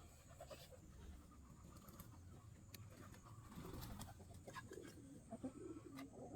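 Faint, low cooing bird calls in the second half, with a few light clicks scattered through.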